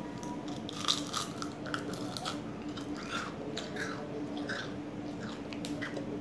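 Biting and chewing into a frozen freeze pop in its plastic sleeve: a string of short, irregular icy crunches starting about a second in.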